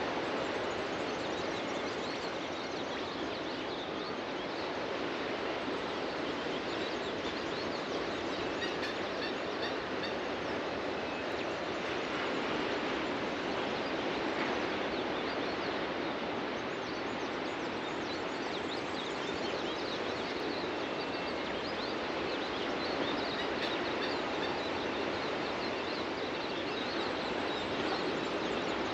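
Ocean surf breaking and washing onto a beach in a steady, continuous rush, with faint short bird chirps over it.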